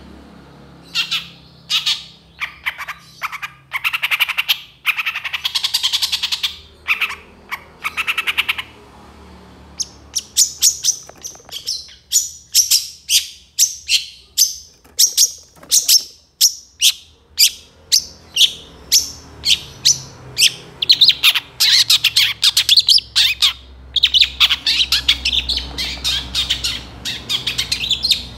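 Long-tailed shrike (cendet) singing a long, fast run of short, sharp high notes and chatters, packed with mimicked calls of other birds. The song pauses briefly about nine seconds in, then resumes faster and denser.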